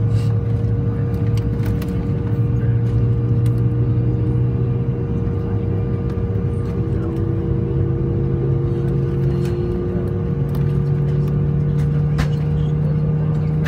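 Embraer E175's General Electric CF34 turbofan engines heard from inside the cabin, a steady drone with a held tone. About ten seconds in, the engine pitch steps up a little. Light cabin clicks and rattles come now and then.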